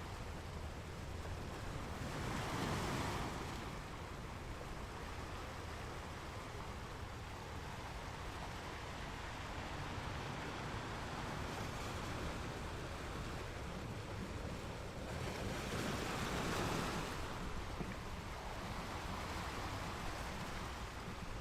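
Ocean surf: waves breaking and washing in, swelling about two seconds in and again near sixteen seconds, over a steady rush of water.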